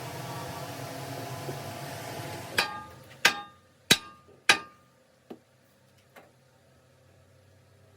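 Steady machine noise with a hum cuts off about two and a half seconds in. It is followed by four sharp hammer blows on metal about half a second apart, each with a short ring, then two lighter taps.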